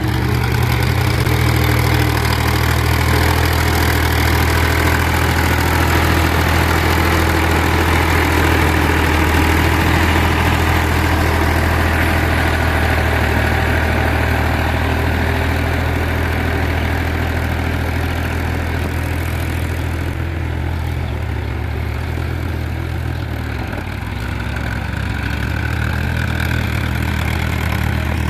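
Powertrac Euro 50 tractor's three-cylinder diesel engine running steadily while pulling a cultivator to puddle a rice field. Its sound eases briefly about three-quarters of the way through, then picks back up.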